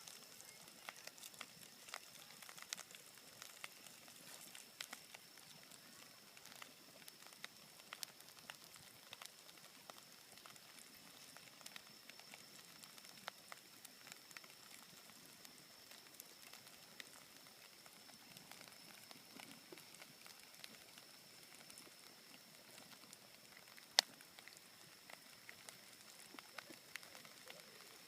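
Wood bonfire crackling: scattered sharp pops and snaps at an irregular pace, with one much louder pop near the end.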